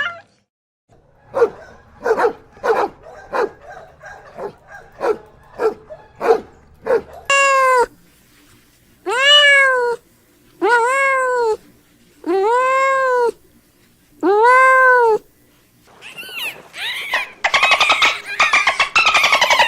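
Cat meowing repeatedly: a run of short mews, then five long meows, each rising and falling in pitch, about a second and a half apart. A denser, overlapping stretch of calls comes near the end.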